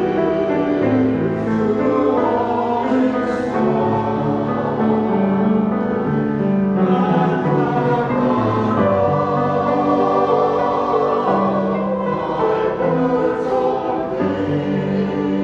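A church choir singing in sustained, held notes, with the pitches changing every second or two.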